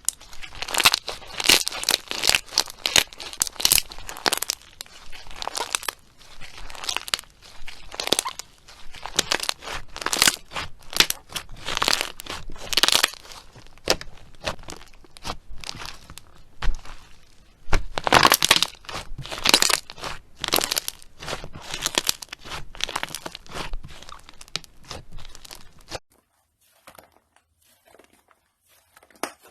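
Slime being squeezed, stretched and kneaded by hand, with a steady run of crackling, popping and squelching snaps. Near the end it breaks off suddenly and only a few faint crackles follow.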